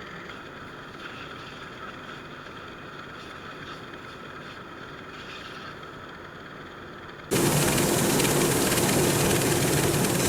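Sakpattana KM-D#1 rice combine harvester running steadily, heard at a moderate level at first. About seven seconds in the sound jumps suddenly to a much louder, fuller engine and machinery noise with a low hum.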